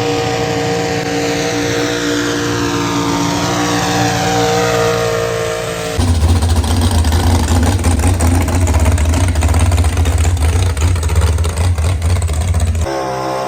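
Pulling-tractor engines running at full throttle. A steady high-revving note with a falling whine gives way abruptly, about six seconds in, to a louder, deeper engine rumble, which changes again abruptly near the end.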